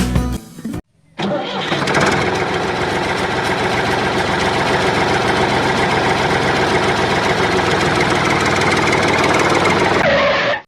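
Small engine of a miniature DIY tractor starting up about a second in and running steadily with a fast, even buzz, then cutting off sharply near the end.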